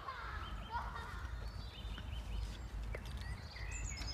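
Small birds singing in woodland: short high chirps repeated a few times a second, with some lower warbling phrases. A steady low rumble runs underneath.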